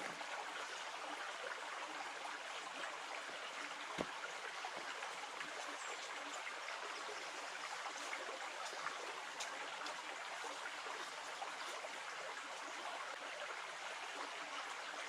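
A river running: a steady rush of flowing water, with a single sharp knock about four seconds in.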